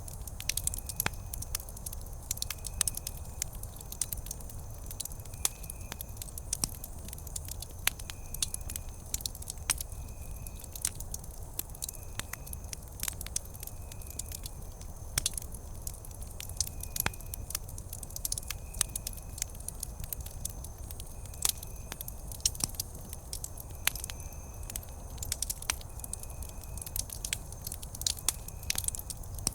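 Wood campfire crackling, with frequent sharp pops and snaps over a low steady rumble. A faint short high chirp repeats about every second and a half.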